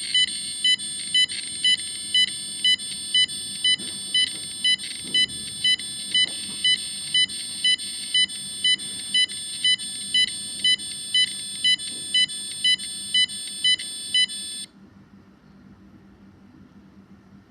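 Electronic radio-frequency meter sounding its alarm: sharp high-pitched beeps about twice a second over a steady electronic tone. The alarm stops abruptly about three seconds before the end.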